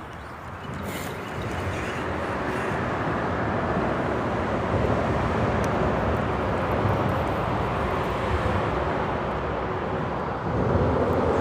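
Freeway traffic on the bridge overhead, a steady rumble of road noise that builds over the first couple of seconds and swells again near the end.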